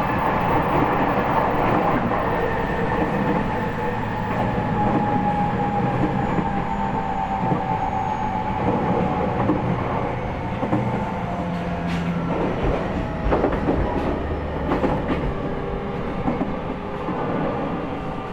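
E501 series electric train running, heard from inside its motor car: the Toshiba IGBT inverter and traction motors give a whine that falls gently in pitch as the train slows, over rumbling wheels. Several sharp clacks of the wheels over rail joints come in the second half.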